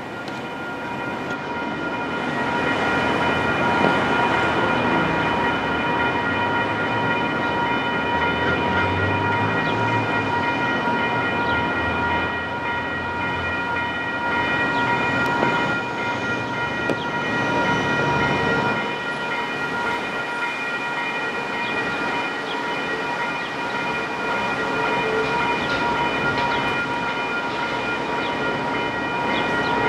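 Railroad grade-crossing bells ringing steadily while a train passes over the crossing, with the rumble of the train's engine and wheels rising about two seconds in and continuing throughout.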